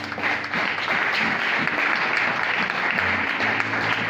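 A congregation clapping together as applause to the Lord, a dense patter of many hands over sustained instrumental notes.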